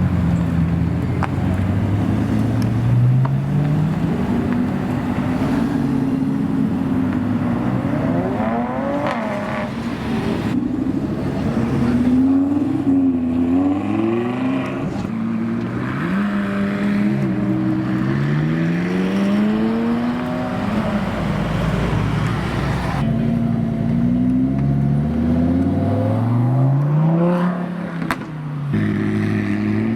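Supercar engines accelerating hard, each one's pitch climbing through a gear and dropping at the upshift before climbing again, over and over. The sound changes abruptly a few times as one car gives way to the next.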